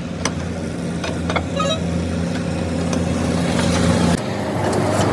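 A vehicle engine runs steadily with a low hum, growing slightly louder, with a few sharp clicks on top. The hum changes abruptly about four seconds in.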